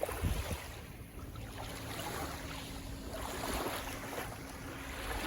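Wind blowing across the microphone: a steady rushing noise with an uneven low rumble that rises and falls in gusts.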